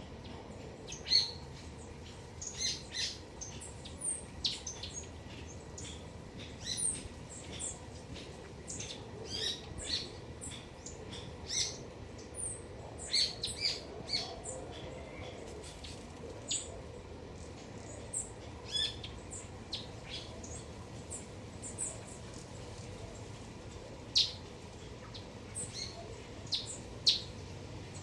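Garden birds chirping: many short, sharp calls from several birds, irregular and scattered throughout, some louder and nearer than others.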